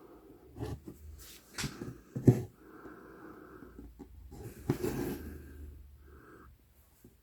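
A size 24 tapestry needle punching through 11-count Aida cloth with sharp pops, the loudest a little over two seconds in, and embroidery floss drawn through the fabric with long rasping pulls.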